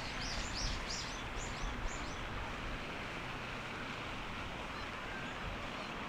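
A small bird gives a quick run of about seven high chirps over the first two seconds, over steady background noise.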